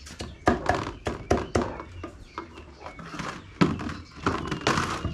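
An irregular series of knocks and thuds, with a longer rush of noise near the end.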